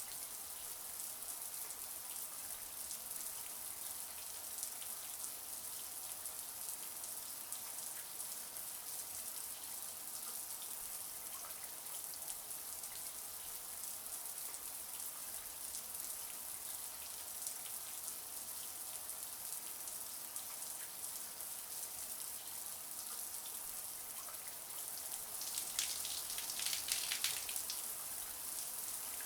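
Shower running: a steady hiss of water spray pattering on a surface. Near the end there is a louder, splashier stretch lasting a couple of seconds.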